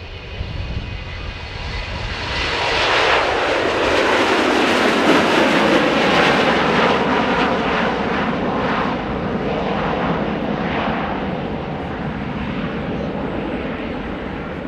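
Aircraft flying past low: the engine roar swells about two seconds in, is loudest around five seconds, then slowly fades away.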